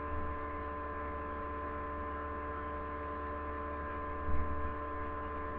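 Steady electrical hum with several constant whining tones over a low drone, and a soft low bump a little over four seconds in.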